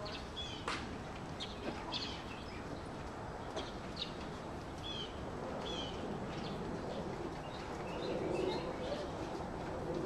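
Small birds chirping in the surrounding trees: short high chirps repeated every half second or so.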